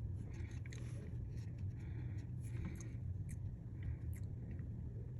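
Light scrapes and small clicks of tools handling a phone display assembly on a repair bench, over a steady low hum.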